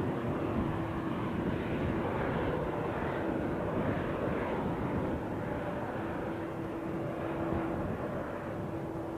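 Airplane engines running steadily: an even rushing noise with a faint steady hum, easing slightly about five seconds in.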